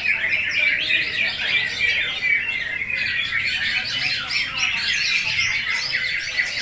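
A chorus of many caged greater green leafbirds (cucak ijo) singing at once: a dense, unbroken tangle of rapid, overlapping chirps and whistled phrases from many birds together.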